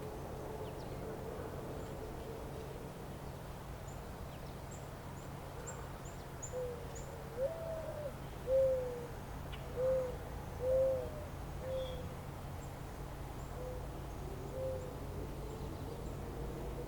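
A bird giving a loose series of about eight short, low hooting notes, a couple of them rising then falling in pitch, over a steady low background rumble. Faint, high, short chirps from small birds come and go.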